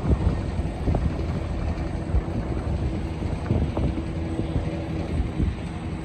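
Low, uneven rumble of jet aircraft, with a faint steady tone in the middle.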